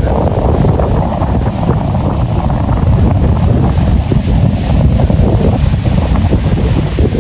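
Heavy wind buffeting the microphone: a loud, steady, low rumble with no breaks.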